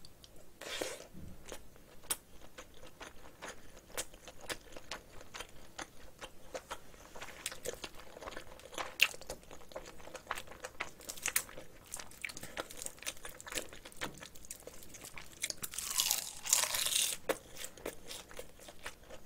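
A person chewing mouthfuls of rice mixed with spicy seasoned cockles and seaweed: many small wet clicks and crunches throughout. A brief, louder hiss-like noise comes about three-quarters of the way in.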